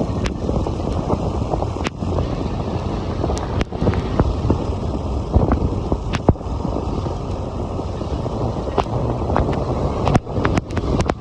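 Wind buffeting the microphone of a camera on a moving motorcycle, a steady rushing rumble, with scattered sharp clicks throughout.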